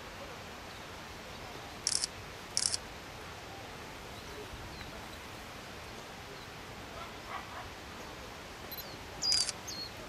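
Japanese white-eyes giving short, high, thin calls: two brief calls about two seconds in, and a louder cluster with a held note near the end.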